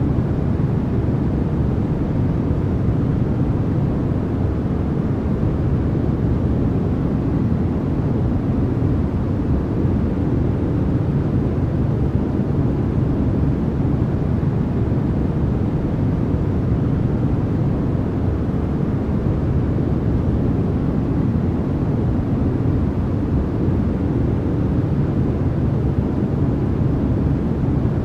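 Continuous, unvarying noise track made for sleep and focus, with most of its strength in the low range, so it sounds like a deep, even rush rather than a bright hiss.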